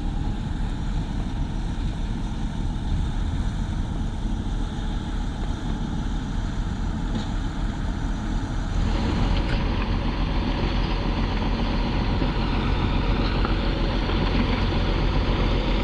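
Diesel engines of heavy construction machinery running steadily. About nine seconds in, the sound turns brighter and a little louder.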